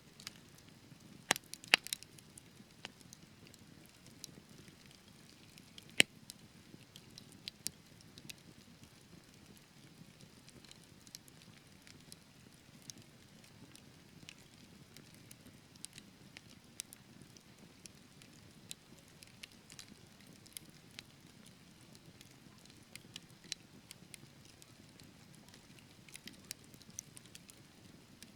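Wood fire burning in a fireplace: burning logs crackling and popping irregularly over a low steady rumble of the flames, with a few sharp louder pops, the biggest about six seconds in.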